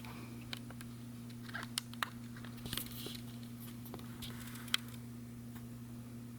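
Irregular light knocks and clicks with brief rustling, the unexplained knocking noise around three-week-old kittens, over a steady low electrical hum.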